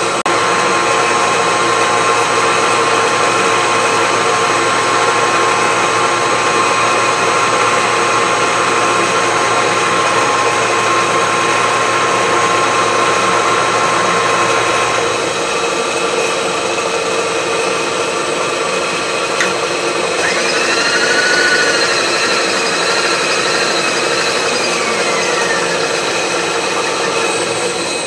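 A milling machine's cutter running and cutting into a steel wood chipper blade, a steady loud machining noise with several held tones. A low hum drops out about halfway through, and a few wavering squeals come in later.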